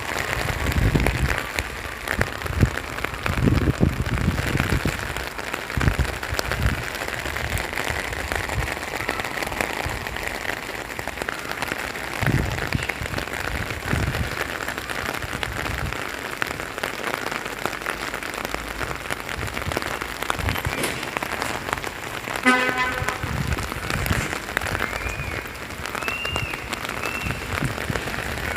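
Steady rain falling, with a short pitched call about three-quarters of the way through and a few brief high chirps near the end.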